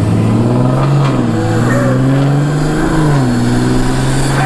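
Car engine running at steady revs while driving. Its pitch bends up briefly about three seconds in, then settles a little lower.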